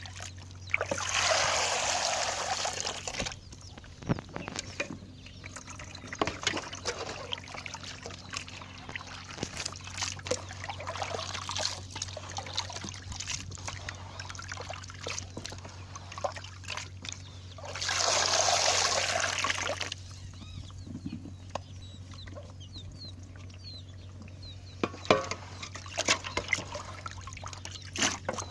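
Water pouring and splashing in two surges of about two seconds each, one just after the start and one about two-thirds of the way in, with small clicks and knocks of handling in between over a steady low hum.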